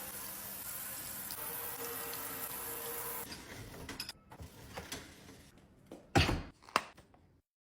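Water running steadily for about three seconds, then a few light clicks and two sharp knocks near the end.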